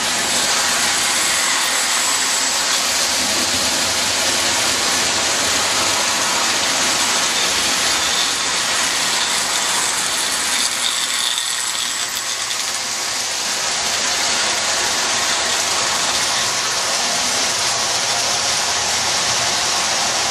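Marx tinplate electric toy train running on its track: a steady mechanical rattle and clatter of wheels and geared motor, a little quieter about halfway through.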